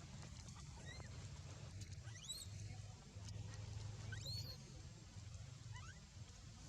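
Baby monkey crying: about five short, high squeals that each rise sharply in pitch, spaced a second or so apart, over a steady low rumble.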